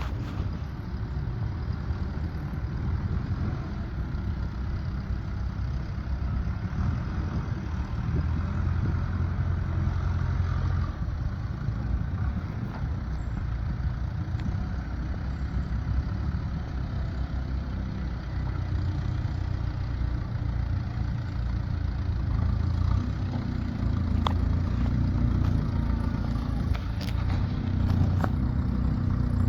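An engine running steadily at a low pitch, with a few sharp clicks near the end.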